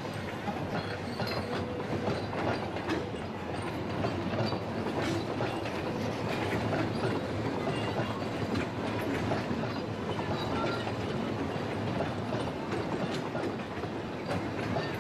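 Puffing Billy narrow-gauge train rolling along the track, its wheels clicking over the rail joints with a steady running rumble.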